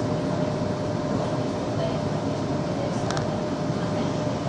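Metro train running between stations, heard from inside the car: a steady rumble with a constant whine, and a couple of brief clicks about three seconds in.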